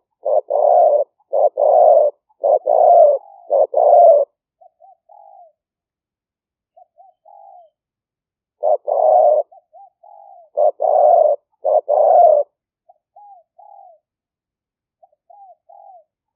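Spotted dove cooing: two runs of loud, rapid coo phrases, each followed by soft, short notes.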